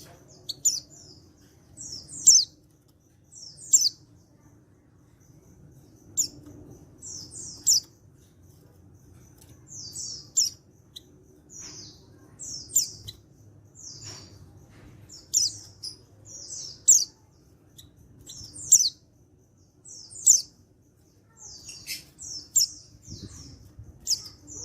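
Male white-eye (pleci) giving short, high chirping calls, repeated every second or two, some in quick pairs.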